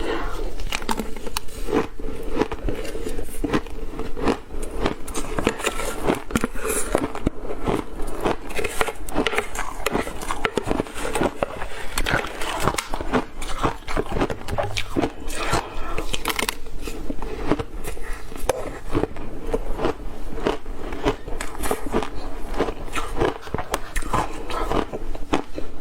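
A person biting and chewing ice close to the microphone: a continuous run of sharp crunches, several a second.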